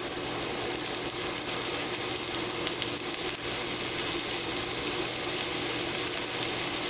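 Diced carrot, celery and onion sautéing in hot oil in an enameled cast iron skillet: a steady sizzle as the vegetables cook down to soften.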